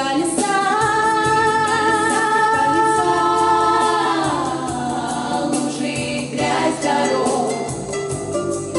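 Vocal quartet singing in close harmony, holding a sustained chord for a few seconds before the voices move on.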